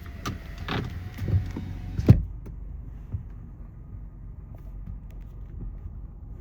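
Several clunks and clicks, the loudest a heavy thump about two seconds in, over a low steady rumble.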